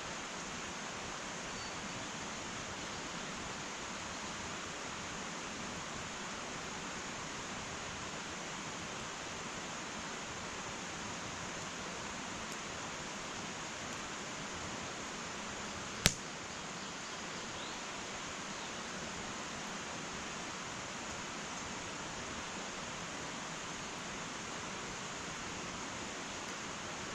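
Wood fire burning in an irori sunken hearth: a steady hiss, with one sharp pop of the burning wood a little past halfway.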